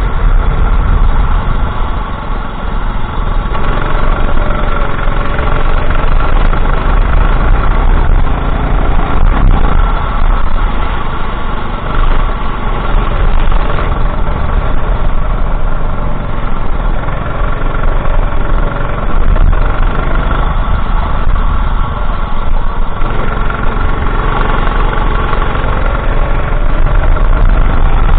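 Go-kart engine running at race pace, its revs climbing and dropping, over a heavy low rumble.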